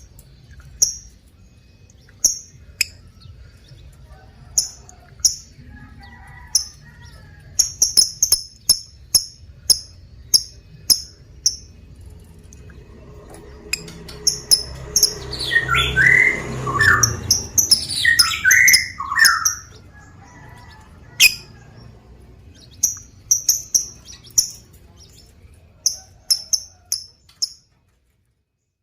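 Lovebird calling: sharp, short, high chirps, singly and in quick runs, with a louder spell of lower, bending squawky calls in the middle. A faint low hum runs underneath.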